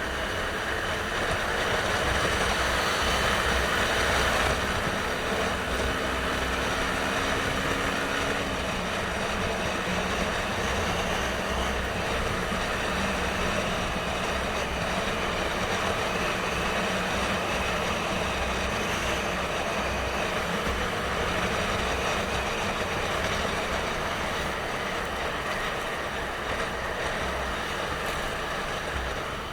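Motorcycle on the move: the engine runs under steady wind and road noise. Its note rises slowly over the first eight seconds or so.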